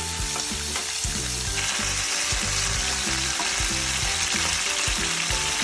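Turmeric-coated squid pieces sizzling steadily in hot oil in a non-stick frying pan, stirred with a wooden spatula.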